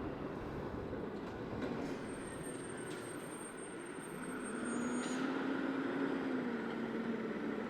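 Diesel lorry engine running as the truck moves past, its note rising about four seconds in and easing off near the end.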